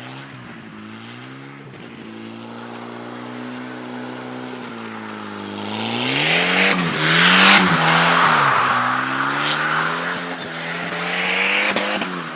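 Volvo 740 turbo drift car's engine running at steady revs, then dipping and revving up about six seconds in as the tyres squeal through a drift, with a second burst of tyre noise near the end.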